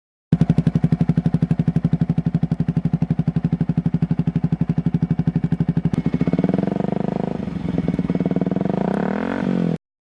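Yamaha R15 V3's 155 cc single-cylinder engine through an aftermarket exhaust, idling with an even, rapid pulse. About two-thirds of the way in it is revved, the pitch climbing and falling, before the sound cuts off suddenly.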